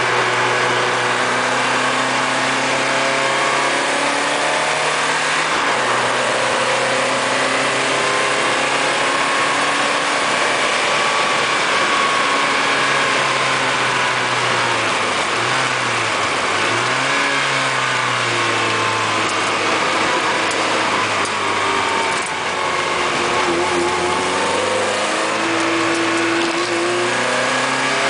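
Lotus Elise Sport 160's 1.8-litre Rover K-series four-cylinder heard from inside the cabin, pulling up and easing off through corners, with a few gear changes where the revs drop and climb again. The driver short-shifts, changing up at modest revs, because of a fault with the gauges.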